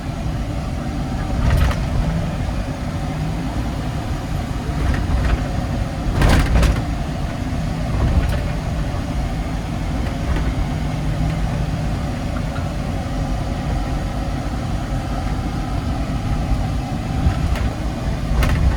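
Kia Bongo 3 cargo truck driving, with steady low engine and road rumble heard from inside the cab. A few short knocks come through, the loudest about six seconds in.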